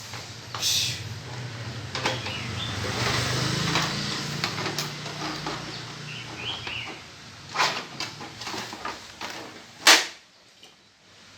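Plastic motorbike body panels being handled and test-fitted: scattered clicks and knocks of plastic, with one loud sharp knock near the end. A low hum runs underneath in the first half, then fades out.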